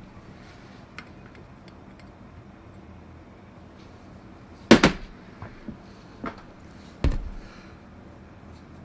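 A few separate knocks and clunks of parts and tools being handled during chainsaw repair work: a faint click about a second in, a loud knock about five seconds in, two smaller taps, and a heavier clunk with a low thud just after seven seconds.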